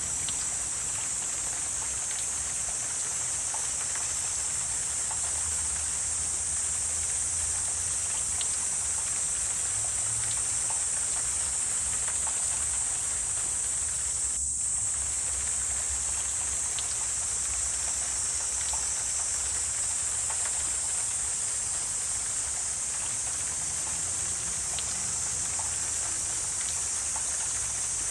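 Wetland nature ambience: a steady, high-pitched insect chorus over a low rumble, with scattered faint ticks.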